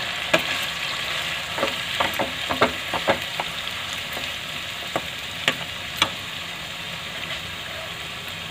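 Mashed boiled carrots sizzling in hot ghee in a non-stick kadhai while being stirred for roasting, with a plastic ladle knocking and scraping against the pan now and then, most often in the first few seconds.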